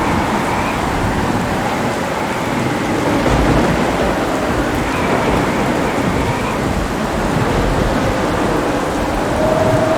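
Steady heavy rain with low rolling thunder rumbling underneath, the rumble swelling a few seconds in and again near the end.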